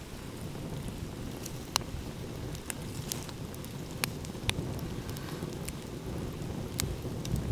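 Wood fire crackling, with sharp pops about half a dozen times, over a steady low rush of ocean waves. A low thump comes near the end.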